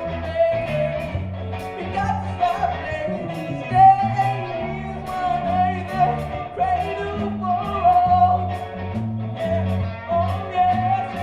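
A live band playing a reggae-style song, with a stepping bass line under a melody line and a steady beat.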